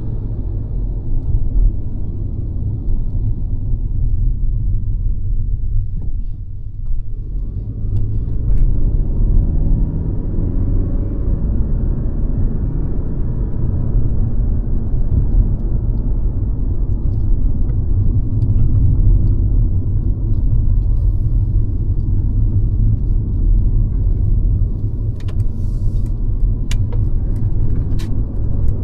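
Mercedes-Benz C-Class (W206) four-cylinder engine and tyre noise while driving, a steady low rumble that eases briefly about six seconds in. A few sharp clicks near the end.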